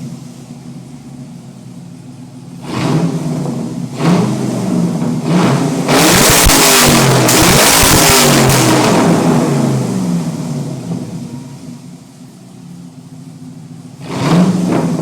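Pontiac GTO V8 on open exhaust with the mufflers unbolted, revved in short blips about three and four seconds in. Then comes a long, loud rev about six seconds in that holds for about three seconds and dies away, and one more rev near the end.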